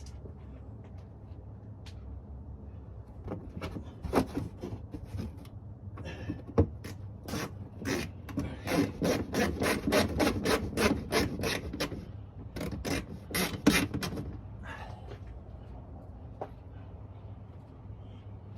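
A run of short rasping, scraping strokes, about three a second, starting about three seconds in and stopping about fourteen seconds in, over a low steady hum.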